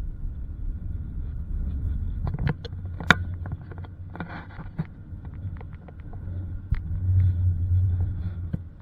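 Car driving over a rough, bumpy dirt road: a steady low rumble with scattered sharp knocks and rattles.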